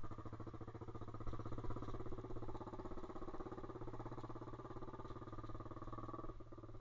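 Pit bike's small single-cylinder engine running at a steady speed while riding, with a brief dip in the engine note near the end.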